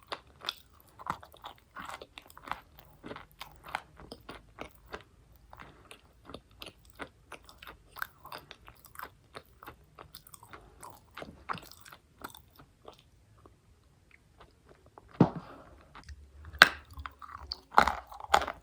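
Close-up crunching as a person bites and chews dry chalk: a run of brittle crackles and crumbling chews, sparser for a moment, then louder, sharper bites in the last few seconds.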